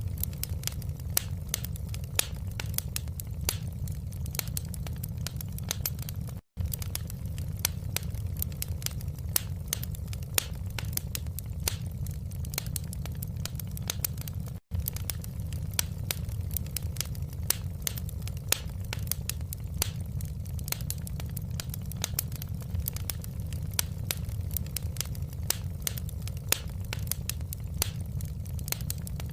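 Wood fire crackling in a fireplace: a dense run of sharp pops and snaps over a steady low rumble of burning. The sound cuts out for an instant twice, about six and a half and fifteen seconds in.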